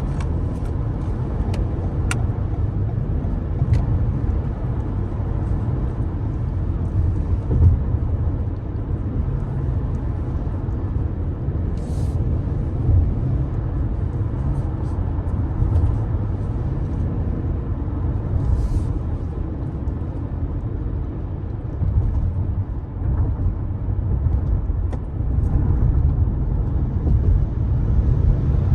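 Steady low rumble of a car driving, with road noise and a few light clicks, and two short hisses about twelve and eighteen seconds in.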